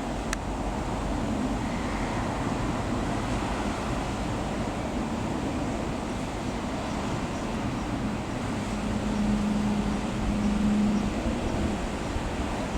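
Bell 505 Jet Ranger X helicopter flying over at a distance, a low steady rumble with wind on the microphone; a steady hum comes up about eight seconds in and fades about three seconds later.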